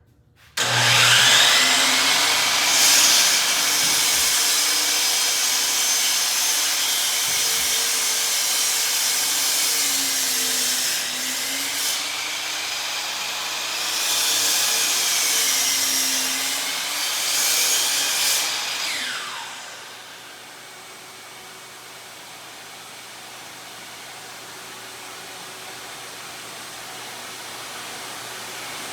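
12-inch miter saw with its stock DeWalt blade starting with a rising whine, then running while it cuts wood, its pitch dipping under load. It spins down with a falling whine about 19 seconds in. A DeWalt shop vac runs underneath throughout and carries on alone afterwards.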